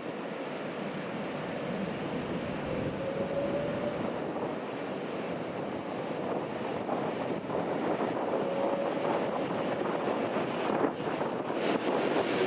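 Steady running noise of a vehicle, with a faint whine that rises briefly twice.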